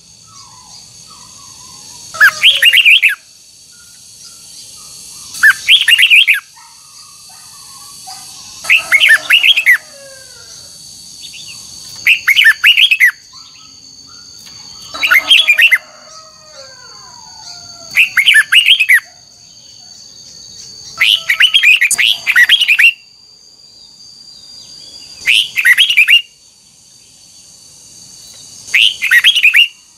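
Red-whiskered bulbul singing loud, short warbled phrases, about nine of them, each lasting roughly a second and coming every three seconds or so. Fainter, lower calls sound between the phrases, over a steady high-pitched whine.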